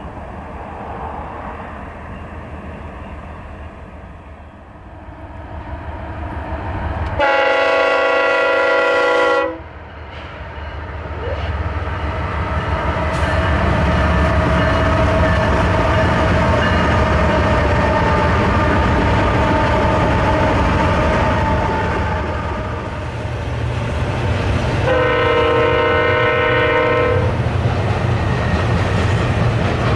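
Intermodal freight train easing downgrade, its locomotives' engines and rolling cars making a steady rumble that swells as it approaches. The locomotive air horn sounds two blasts of about two seconds each, the first about seven seconds in and the second near the end.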